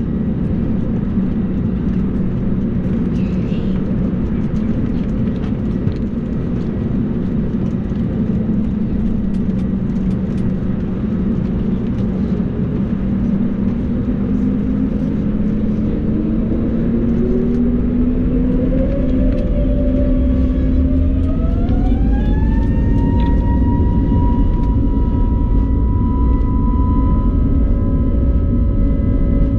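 Airbus A320neo's CFM LEAP-1A jet engines heard from inside the cabin: a steady hum, then about halfway through a whine that rises in pitch over several seconds as the engines spool up towards takeoff thrust. It settles into a steady higher tone over a growing low rumble.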